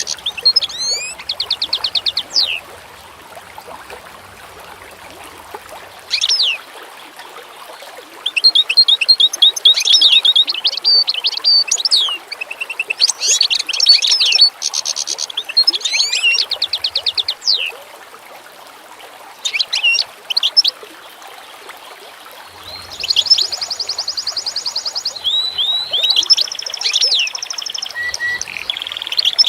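Songbirds singing in bursts of high rapid trills and quick down-slurred whistles, with pauses of a few seconds between phrases, over a faint steady hiss.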